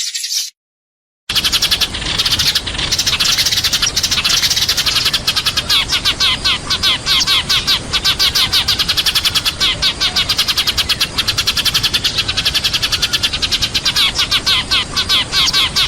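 Sparrows chirping rapidly and without pause, many quick chirps a second packed close together, starting after a short gap of silence near the start.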